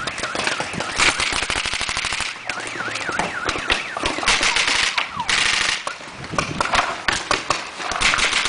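Paintball markers firing in fast strings of many shots a second, a rapid-fire exchange, with patches of hiss and a wavering tone that rises and falls a few times around the middle.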